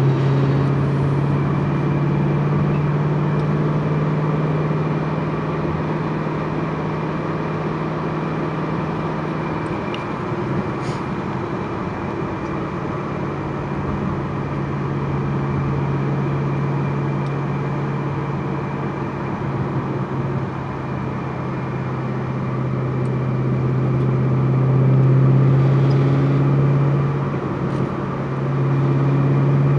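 Twin-turbo Ford GT V8 running at a steady engine speed with a low, even drone. The drone eases off about ten seconds in and again around twenty seconds, then swells back louder near the end.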